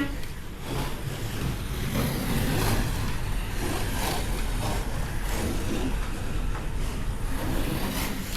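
Slot cars lapping the track: a steady whirr of small electric motors and wheels, its pitch rising and falling as the cars speed up and pass.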